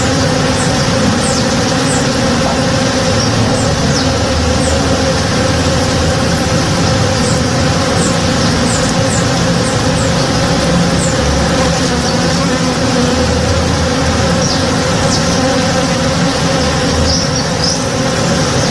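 Many honey bees foraging in a blossoming tree, a steady dense buzzing drone of many overlapping tones, with short high chirps scattered through it.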